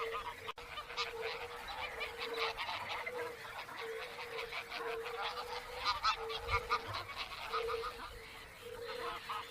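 Several birds calling at once: fast runs of short, repeated honking calls that overlap, with a steady lower tone underneath.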